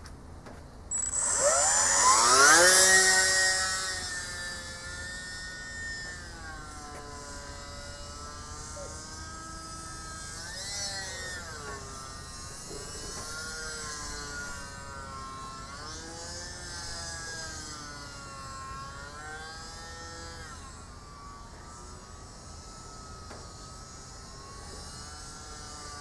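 Electric motor and propeller of an AS3X Beast RC model plane throttling up for takeoff: a whine that climbs in pitch and is loudest about two to three seconds in. It then goes on fainter as the plane flies about, its pitch rising and falling with throttle and passes.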